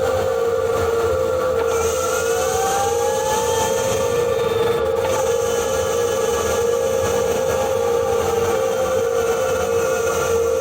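2021 Ford Kuga PHEV's HF45 e-CVT transmission, heard from a microphone on the gearbox, giving off a steady warbling whine with fainter whining tones that rise and fall in pitch as the car moves. This is the weird rotational noise that appeared after a flywheel change, which the owner thinks may come from motor generator 1.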